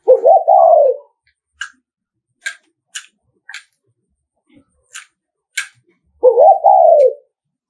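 Spotted dove giving its 'thúc gù' coo: two short cooing phrases about six seconds apart, each rising then falling in pitch. About seven sharp clicks fall in the gap between them.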